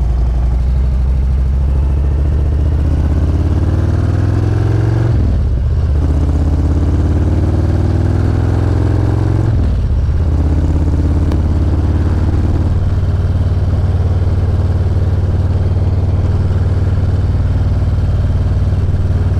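Motorcycle engine pulling away and accelerating: the pitch climbs, drops at a gear change about five seconds in, climbs again and drops at a second shift near ten seconds, then settles into steady cruising.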